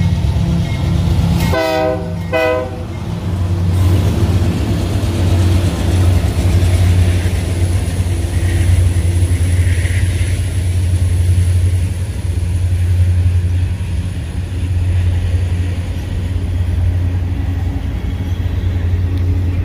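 Union Pacific diesel locomotives and double-stack container cars passing close by in a steady low rumble of engines and wheels on rail. The locomotive horn gives two short blasts about a second and a half in.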